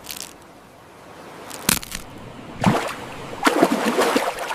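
Water sloshing and splashing as a plastic toy is handled in a basin, with a sharp click about a second and a half in.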